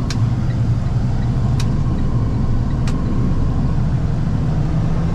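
Steady engine and road drone inside the cab of a moving box truck. Three sharp clicks come about a second and a half apart in the first three seconds.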